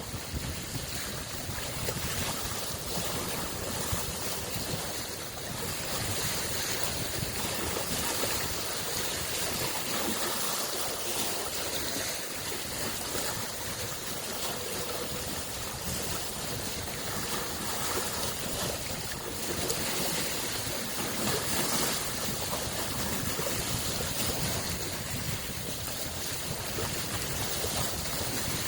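Small lake waves lapping and washing against the shore in a continuous splashing wash, swelling and easing gently.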